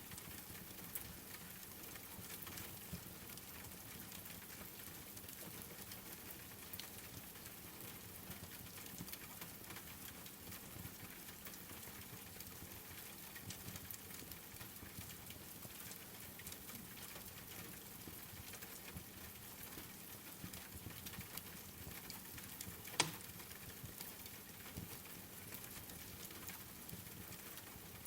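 Steady rain with a wood fire crackling faintly, with one sharp, loud pop about three-quarters of the way through.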